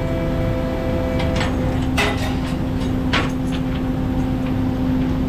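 A prawn trawler's engine and machinery running steadily with a low rumble and a held hum, with several short sharp knocks and clanks about one to three seconds in.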